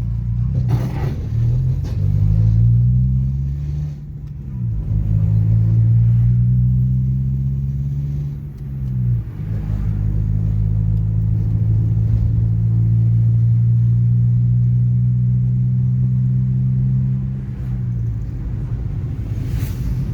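Heavy bass of Brazilian funk pumped at high volume through a car sound system's subwoofers: deep, long bass notes that slide up and down, with short breaks about four and nine seconds in.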